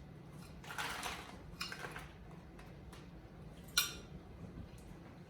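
Corn kernels being spooned into food containers: soft scrapes and rustles of a utensil, with one sharp clink a little before the end.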